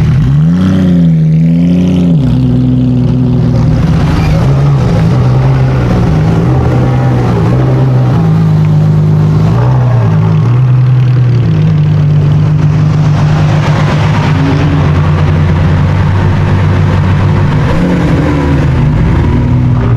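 A car engine running loudly with a steady low note: a short rev about a second in, then small shifts in pitch.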